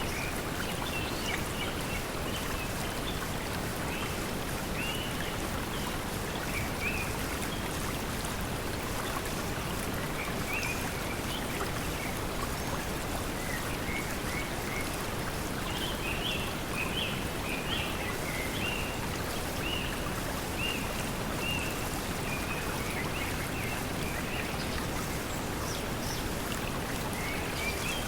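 Steady pink noise mixed with flowing water, with small birds chirping now and then: more busily about halfway through, and again near the end.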